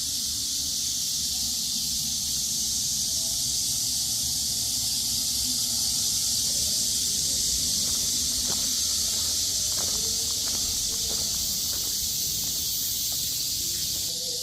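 Steady high-pitched insect chorus with a low rumble underneath; faint short chirps and ticks join in over the second half.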